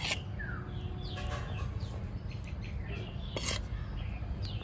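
Birds chirping faintly and sparsely in the background, over a steady low hum, with two sharp clicks: one at the start and another about three and a half seconds in.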